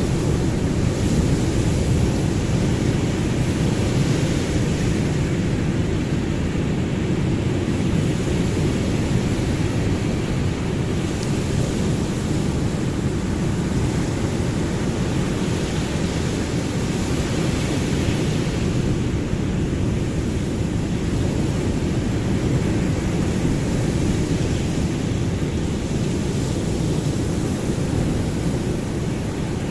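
Ocean surf: a steady, deep rushing of waves that swells and eases a little in loudness.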